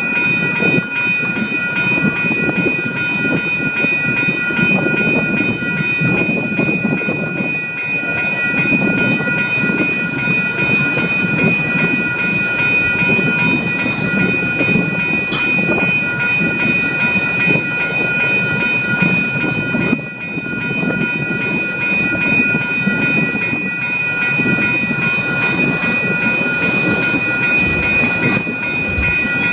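A vehicle running, a steady low rumble with several steady high whining tones held above it, and a single sharp click about halfway through.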